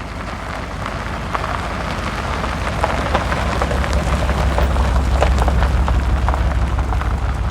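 A car engine running close by, its low, pulsing rumble growing louder over several seconds, with a crackling noise on top.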